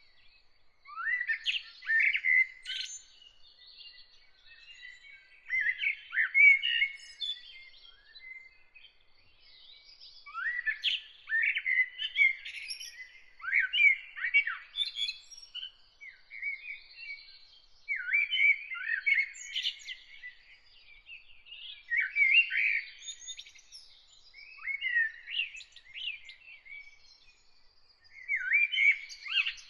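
A songbird singing a string of short, varied whistled phrases, each a second or two long, with brief pauses between them. A faint, thin high tone runs behind the song.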